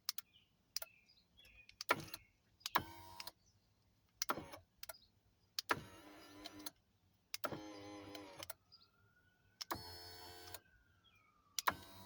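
Acura MDX's electric power tilt steering column motor running in about six short runs of under a second each, each started by a sharp click of the column's toggle switch.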